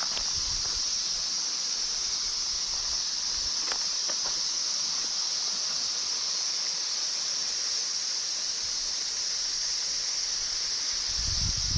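Steady, high-pitched hiss of outdoor bush ambience, with a few faint clicks about four seconds in and low wind rumble near the end.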